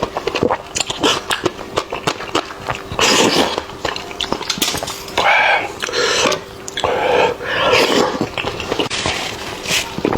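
Close-miked eating: wet chewing and rapid lip-smacking clicks, broken by several longer sucking, slurping stretches of about a second each.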